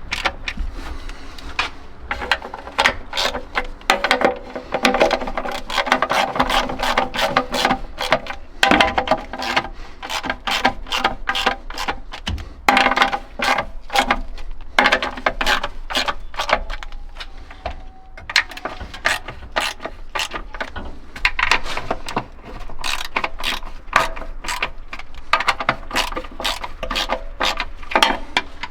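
Socket ratchet clicking in repeated irregular strokes, over a steady low hum.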